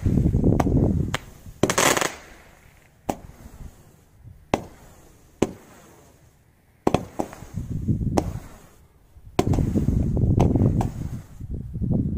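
Low-noise fireworks going off: a low rushing noise at first, then a brief burst of hiss about two seconds in. Single sharp pops follow about once a second or so, and the rushing noise returns over the last few seconds.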